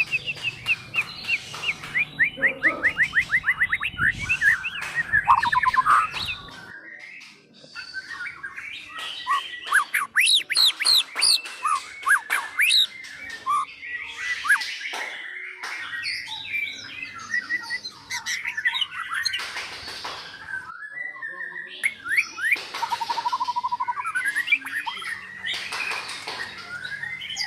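White-rumped shama (murai batu) singing a long, varied song: fast runs of repeated notes, quick whistled sweeps up and down, and harsher chattering phrases, broken by a couple of short pauses.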